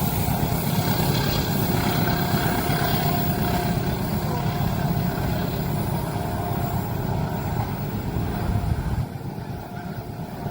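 A passing train's steady rumble, which drops away sharply about nine seconds in.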